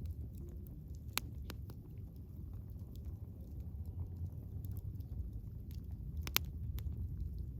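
Wood fire crackling, with scattered sharp pops over a steady low rumble. One strong pop comes about a second in and the loudest near the end.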